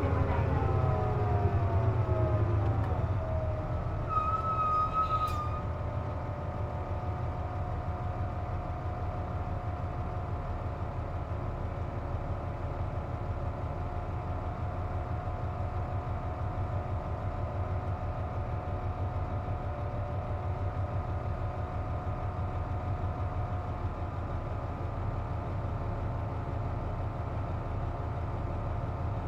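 KC-JP250NTN diesel bus slowing, its engine and driveline pitch falling, then running steadily as at idle. Through this a steady whine carries from the running air conditioner, the abnormal noise (異音) this bus makes with the A/C on. A short high beep sounds about four seconds in.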